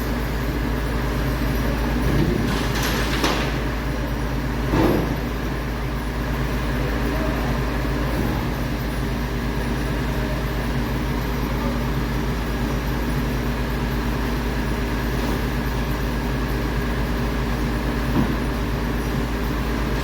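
MAN TGS 26.320 garbage truck's diesel engine running steadily, with a few knocks and clanks about two to five seconds in and again near the end.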